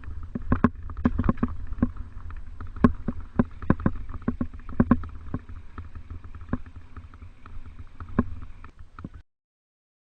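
Mountain bike rattling over a rough trail: a steady low rumble of wind and rolling, with many irregular sharp knocks and clatters from the bike. It cuts off suddenly near the end.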